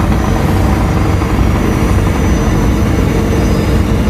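A ferry's engines running steadily under way, a continuous low rumble that the owner calls the engines "trugging".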